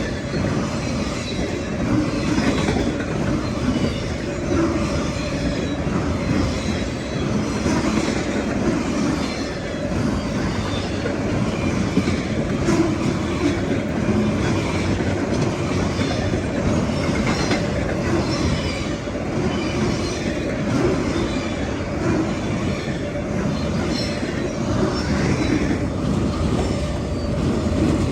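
CSX autorack freight train rolling past, its steel wheels rumbling and clacking over the rail joints steadily, with brief high wheel squeals now and then.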